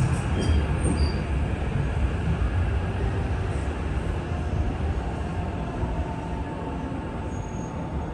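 Limited express electric train rolling slowly along the platform as it comes in to stop, a steady low rumble that gradually fades, with faint steady whines in the last few seconds.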